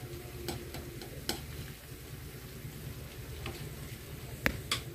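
Broccoli and cauliflower stir-fry sizzling in a wok, with a few light clicks and a sharper knock near the end.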